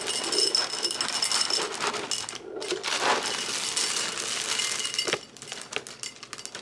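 Dry crunchy cereal rattling into a bowl as it is poured, with crinkling of the bag; the rattle eases off after about five seconds.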